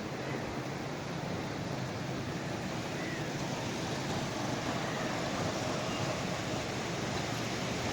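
Approaching train hauled by a ZCU-30 diesel-electric locomotive: a low, steady engine hum under an even rushing noise that grows slightly louder.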